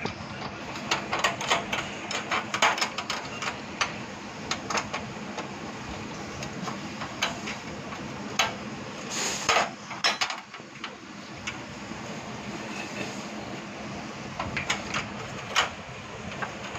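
Irregular metallic taps, clinks and knocks from hand-working the parts of an LPG gas stove, coming in clusters over a steady low hiss. One longer scraping burst comes about nine seconds in.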